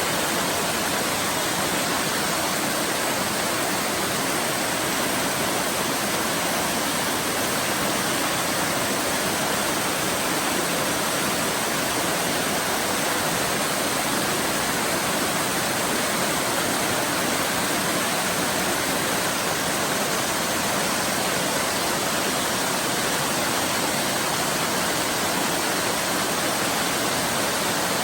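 Waterfall: water pouring and splashing onto rock in a steady, unbroken rush.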